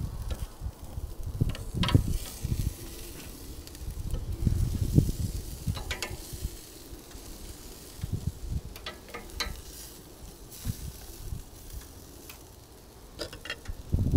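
Burgers sizzling on a barbecue grill: a faint steady hiss, with a few short clicks and frequent low bumps on the microphone.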